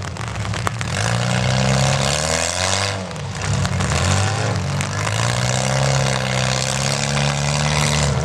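Demolition derby cars' engines running and revving, their pitch rising and falling, with a brief dip about three seconds in.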